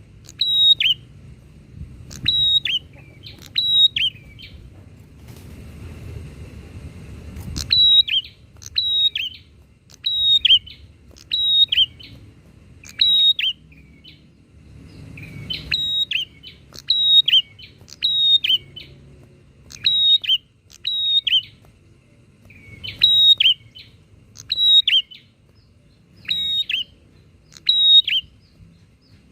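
Prinia (prenjak) calling a short, sharp note over and over, about once a second, each call dropping in pitch. Calls stop briefly while a hiss of noise runs from about five to eight seconds in.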